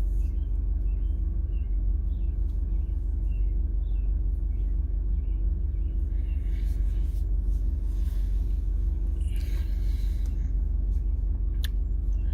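Steady low rumble of a car's engine idling, heard from inside the cabin, with faint high chirps in the first few seconds.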